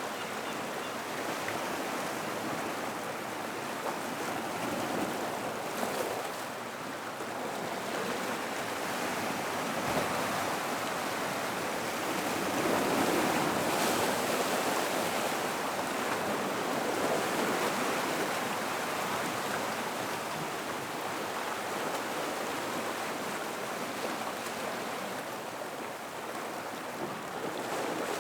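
Gentle ocean surf washing into and around a rock pool: a steady wash of water that swells a little louder about halfway through.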